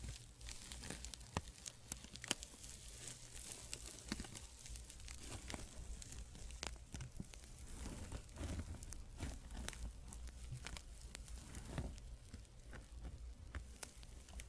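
Fabric rubbed close to the microphone as an ASMR trigger: a continuous crackly rustling, scattered with small sharp clicks, two of them sharper about one and two seconds in.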